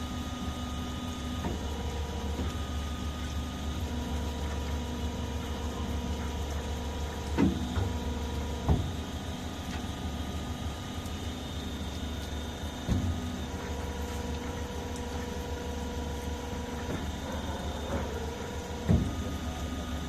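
CNC bundle cutting machine running: a steady low hum, with a motor whine that switches on and off in spells of a few seconds, and a few sharp knocks.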